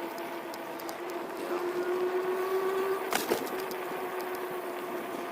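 Fifth Wheel W11B electric bike's motor whining steadily while riding, its pitch rising slightly then settling. A sharp knock about three seconds in, as the bike jolts over the bumpy path.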